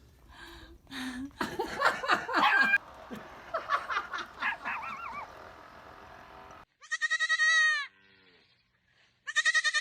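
A young farm animal bleating: a loud, quavering high-pitched cry of about a second, then a shorter second bleat near the end. Before the bleats come a few seconds of jumbled, mixed sounds.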